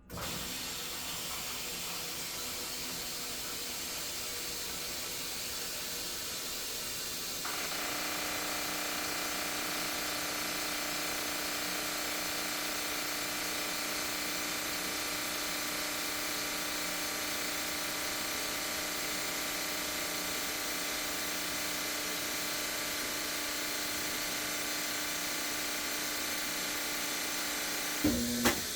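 Maytag MVWP575GW top-load washer starting its fill: water hissing steadily into the tub. About seven seconds in, a steady buzzing hum starts up and runs on. Near the end come two sharp clicks. This is the loud clicking and buzzing at the start of the fill, which the owner believes comes from the drum lock releasing so the drum can turn.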